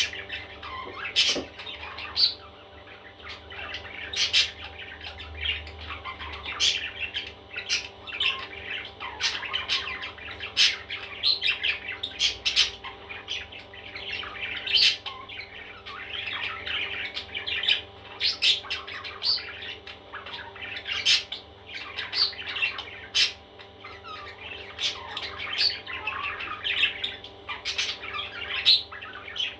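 Baby parrots squawking and chirping: a steady stream of short, sharp calls with frequent louder squawks.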